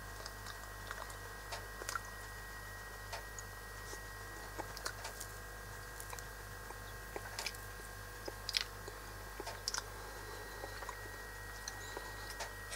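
A person chewing dried honeysuckle berries: quiet, irregular small clicks and crunches over a faint steady hum.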